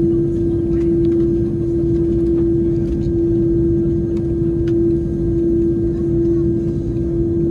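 Steady cabin noise of an Airbus A330-300 before takeoff: a low rumble with a strong, steady droning tone.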